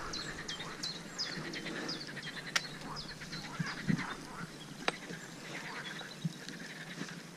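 Birds calling: a fast series of short, high, falling chirps, thick in the first few seconds and thinning out after, with a couple of sharp clicks.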